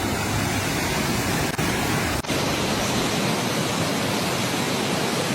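Fast-flowing floodwater rushing steadily, briefly broken about two seconds in.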